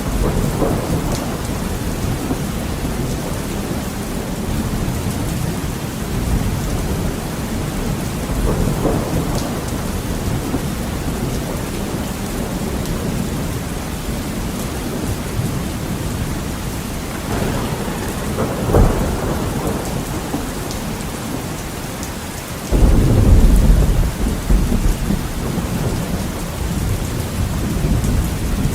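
Heavy rain on a window glass as a steady hiss, with thunder rumbling through it. About three-quarters of the way through, a much louder, deep thunderclap breaks and rolls on for several seconds.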